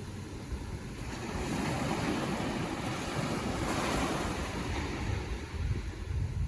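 Ocean surf washing in, one wave swelling about two seconds in and easing off, with wind rumbling on the microphone toward the end.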